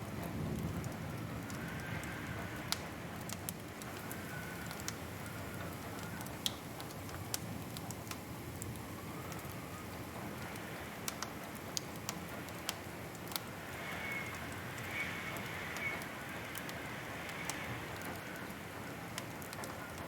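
Wood fire crackling: a steady hiss and low rumble with scattered sharp pops at irregular intervals. A faint wavering whistle comes and goes, clearest about two-thirds of the way through.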